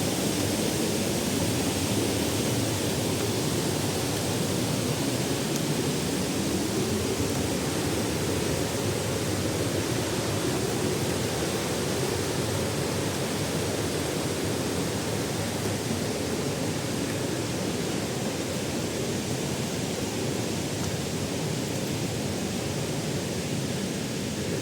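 Waterfall water rushing and splashing in a steady, even roar of noise, heaviest in the low range.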